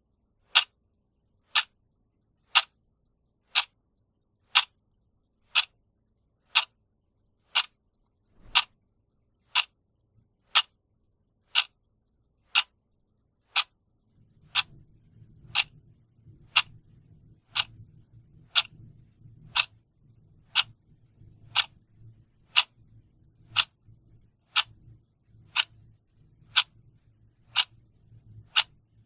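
Clock ticking steadily, about one sharp tick a second. A faint low hum comes in about halfway through.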